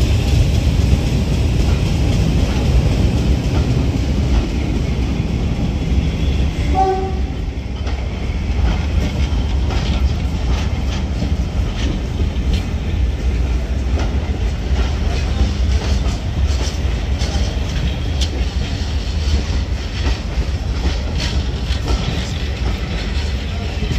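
Diesel train running on the line, a steady low rumble. A brief tone sounds about seven seconds in.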